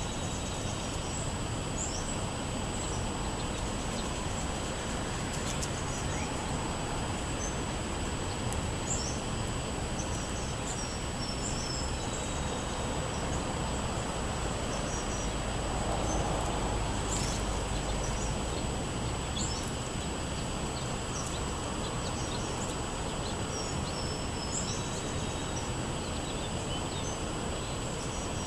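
Small songbirds chirping and calling again and again over a steady outdoor background hum, with a constant thin high-pitched whine. About halfway through, a low rumble swells and fades.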